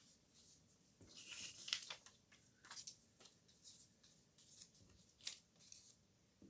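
Faint, scattered rustles and light clicks of paper and card pieces being handled on a desk.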